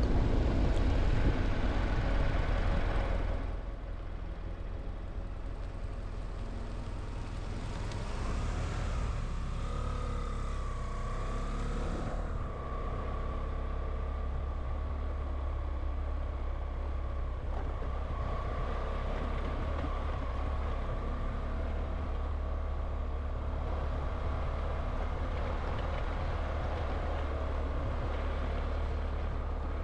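A vehicle driving along a road: a steady low rumble of engine and road noise, a little louder for the first few seconds.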